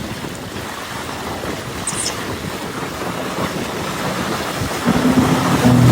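Wind rumbling on the microphone over water and a boat, with a steady motor drone starting about five seconds in and getting louder.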